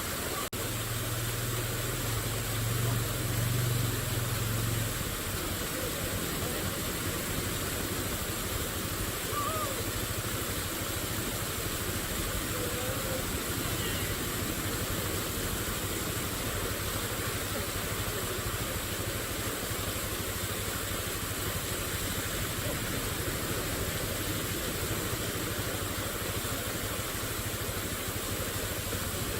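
Steady rushing of water from a small waterfall and its stream. A low rumble runs under it for the first few seconds, and there are a few faint chirps.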